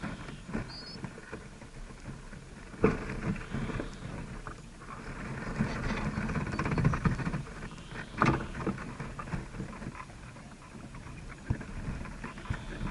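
Rustling and scratching noise with scattered clicks and two sharp knocks, about three seconds in and eight seconds in, and a faint short bird chirp about a second in.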